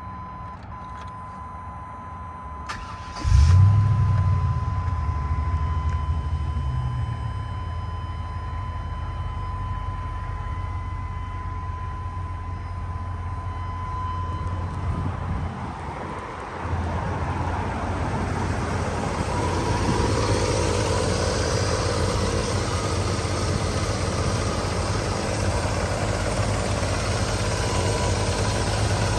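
1997 GMC Sierra 3500 pickup's engine starting about three seconds in, flaring up and then settling over a few seconds into a steady idle. It dips briefly past the middle and comes back a little louder for the rest.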